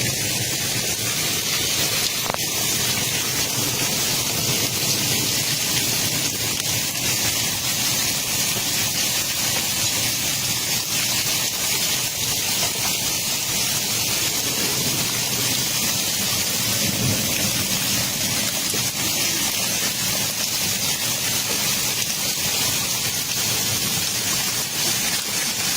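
Hailstorm: hailstones mixed with heavy rain pelting down in a steady, dense clatter of countless small impacts, with one sharper knock about two and a half seconds in.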